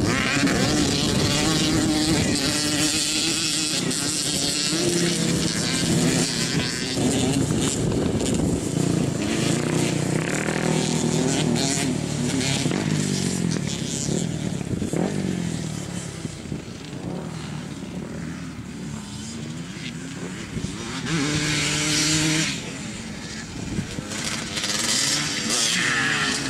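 Dirt bike engine running and revving, its pitch climbing and falling again and again. It drops back for several seconds past the middle, then picks up loudly again.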